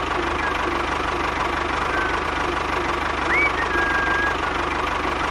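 A small engine or motor running steadily with a fast, even low knocking rhythm. A few short whistle-like chirps sound over it.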